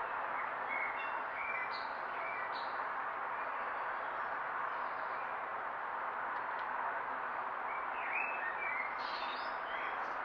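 Small garden birds chirping in short bursts, one cluster early on and another near the end, over a steady hiss.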